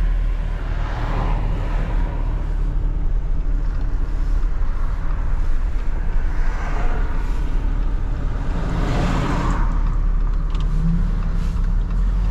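Semi-truck driving on the road: a steady low engine and road rumble, with rushing swells about a second in, around seven seconds and around nine seconds.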